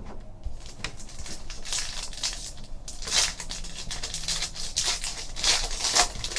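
Trading card pack wrappers being crinkled and torn open, with cards handled in between: irregular bursts of rustling, heaviest twice, a couple of seconds in and again near the end.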